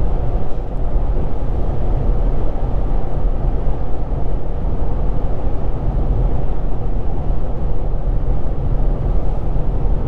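Infiniti G35's 3.5-litre VQ35DE V6 running through a Z1 touring exhaust at a steady cruise, a low, even drone mixed with road and tyre noise inside the cabin, with no revving.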